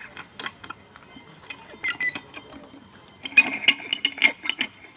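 Sparse clicks and rattles of objects being played, then about three seconds in a dense flurry of rattling clicks and scrapes lasting over a second.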